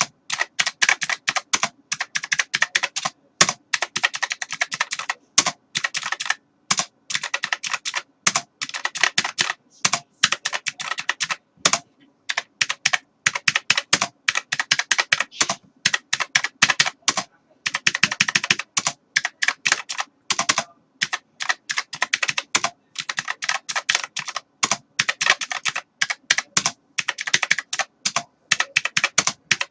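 Typing on a computer keyboard: fast runs of key clicks, a few seconds at a time, broken by brief pauses.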